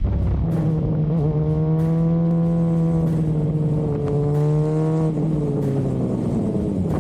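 Motorcycle engine running at a steady high pitch, then the engine note drops after about five seconds.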